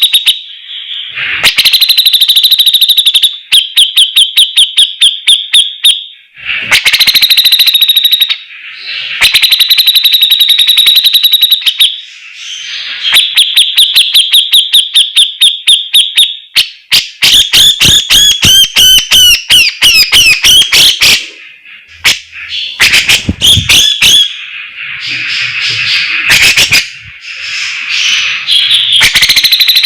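Grey-cheeked bulbul (cucak jenggot) singing loudly in rapid chattering trills on one high note, in bursts of a few seconds with short gaps. About halfway through it breaks into a more varied, warbling phrase.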